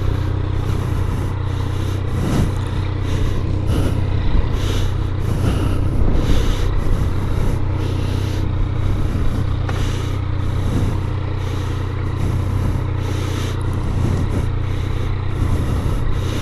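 Yamaha MT-09's three-cylinder engine running steadily at low revs. A hiss swells and fades above it in quick, regular pulses.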